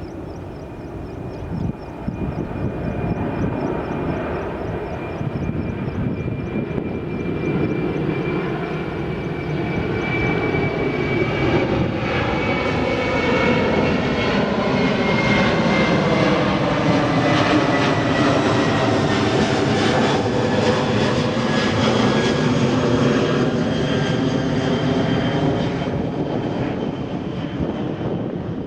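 Jet airliner passing close by on or over the runway: its engine noise builds to a peak about two-thirds of the way through, then eases a little. A high whine falls slowly in pitch as it goes past.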